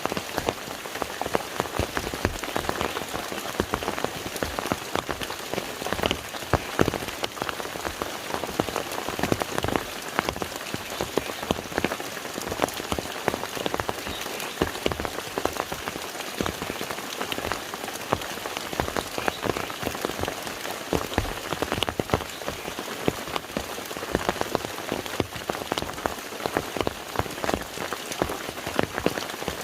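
Steady rain falling on a lake: an even hiss dense with countless separate drop impacts.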